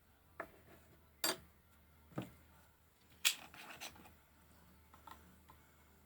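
A few separate knocks and clinks of objects being handled, perhaps dishes or glassware, about four sharp ones in the first four seconds; the loudest is a bright clink about three seconds in, followed by smaller rattles.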